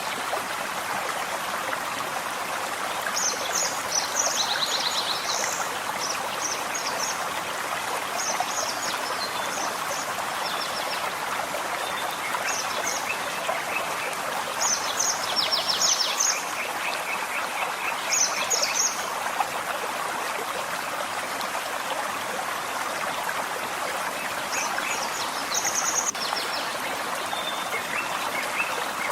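Forest stream running steadily, with small birds singing quick runs of high notes several times over.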